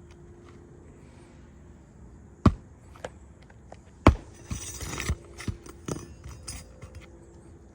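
Roofing nails being hammered into asphalt shingles: two sharp hammer blows about a second and a half apart, then lighter taps with a short scraping rustle.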